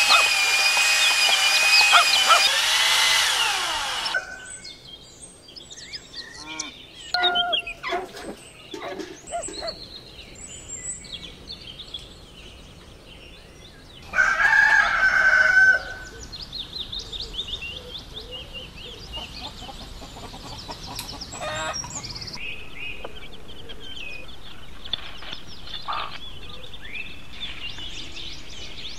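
Cordless drill spinning a copper tube against an abrasive scouring pad, running steadily for about four seconds and then stopping. After that, hens cluck and a rooster crows loudly once about halfway through, with smaller birds chirping.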